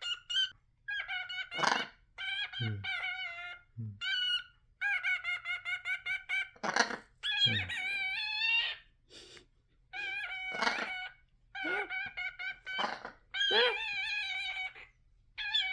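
A pet bird calling over and over, mixing quick runs of short repeated notes with longer held calls.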